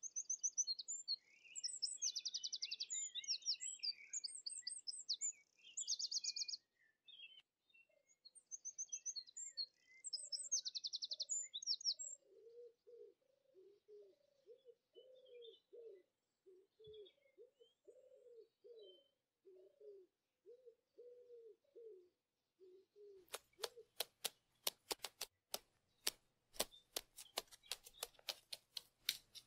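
Small songbirds chirping and trilling in high-pitched bursts for about the first twelve seconds. Then a lower bird call is repeated over and over for about ten seconds. Near the end comes a fast run of sharp taps, a woodpecker pecking at wood.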